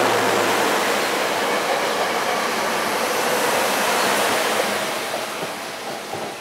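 SEPTA Silverliner IV electric commuter cars departing past at close range: a steady rush of wheels on rail that fades as the last car pulls away near the end.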